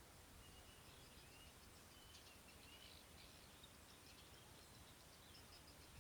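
Faint, scattered bird chirps and short whistled calls over a steady low hiss.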